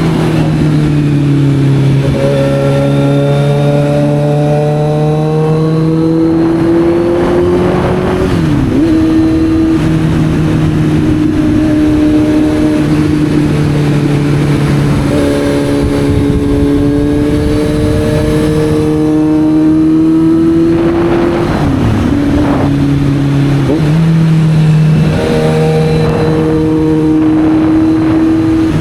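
Kawasaki Z900's inline-four engine heard from on board while riding. The revs climb steadily, drop away at about eight seconds and again around twenty-one seconds, then pull up again. Wind noise runs underneath.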